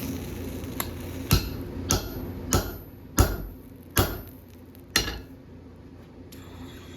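Hammer blows on hot steel at an anvil: six sharp ringing strikes, spaced a little over half a second apart and slowing toward the end, over a steady low hum.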